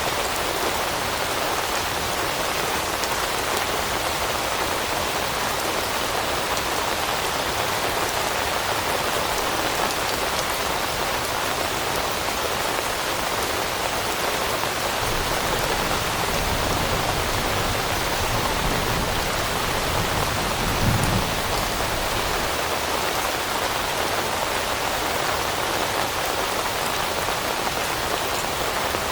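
Steady rain falling on leaves, an even, dense hiss of drops. A low rumble swells in a little past the halfway mark and fades out again.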